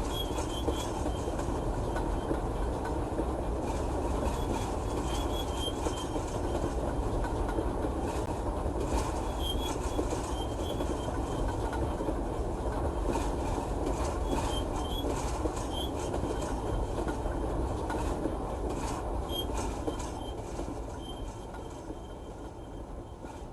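Manifest freight train's cars rolling past on the rails with steady wheel noise and short high wheel squeals, fading away over the last few seconds.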